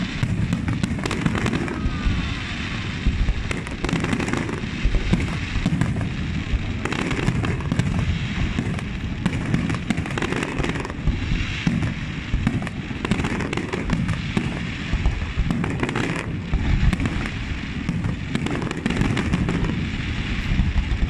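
Fireworks display: a dense, unbroken barrage of bangs in quick succession.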